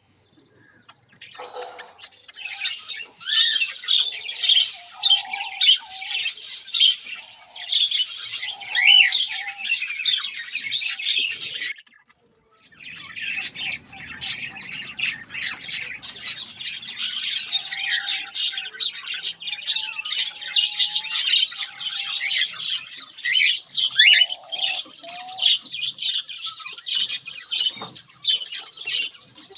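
A crowd of aviary birds chirping and squawking, many calls overlapping without pause. The sound stops abruptly at about twelve seconds and resumes a moment later.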